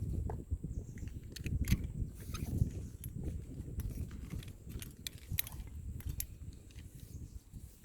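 Climbing hardware clinking with scattered sharp metallic clicks, over a steady low rumble.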